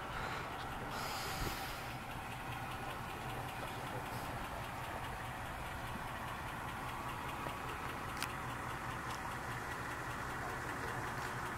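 A vehicle engine idling steadily, with a short hiss about a second in and a sharp click about eight seconds in.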